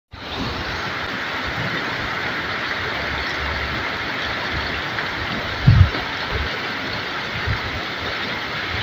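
Heavy rain pouring steadily, an even dense hiss. A brief low thump comes a little past halfway.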